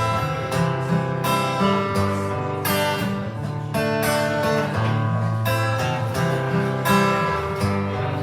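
Acoustic guitar strumming chords in an instrumental break between verses of a country song.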